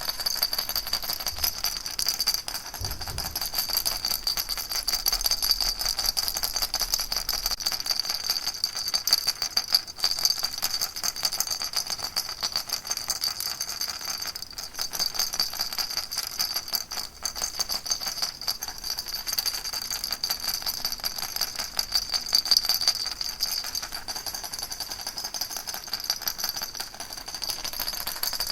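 Baby rattle shaken without a break: a dense, even rattling with a bright, high shimmer.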